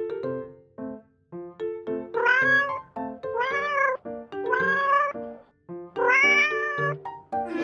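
A cat meowing four times, each meow rising and then falling in pitch, over background music of short stepping notes.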